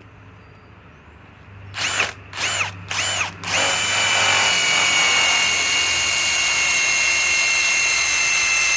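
Ryobi PSBIW25 compact cordless impact wrench: three short trigger blips, each with a whine rising and falling, then from about three and a half seconds in it runs loud and continuously with a steady, slowly falling whine as it drives a large lag bolt into wood under heavy load.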